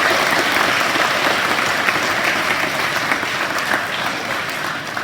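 A school assembly audience clapping, a dense patter of many hands that slowly eases off toward the end.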